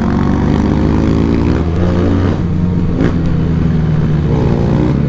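Benelli 300 parallel-twin motorcycle engine running under way, its pitch rising briefly a couple of times as the throttle opens, about one to three seconds in.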